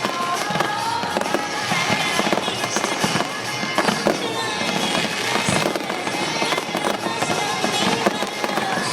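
Fireworks display going off continuously: a dense run of bangs and crackling bursts, with music playing underneath.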